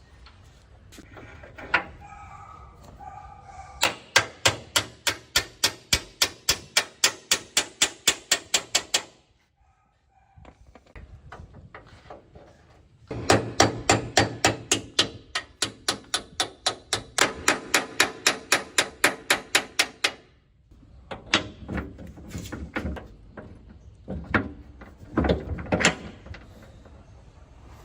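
Rapid, evenly spaced knocks, about four a second, in two runs of several seconds each, followed by a few scattered knocks near the end.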